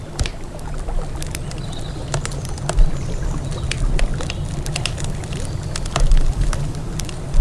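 Wood campfire crackling, with irregular sharp pops and two louder pops about three and six seconds in, over a steady low rumble.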